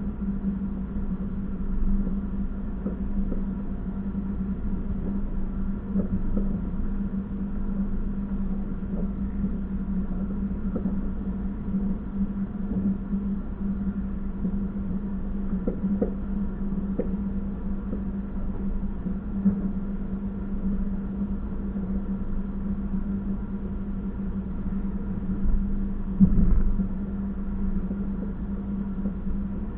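Train running: a steady low rumble with a constant hum and a few short knocks, the loudest near the end.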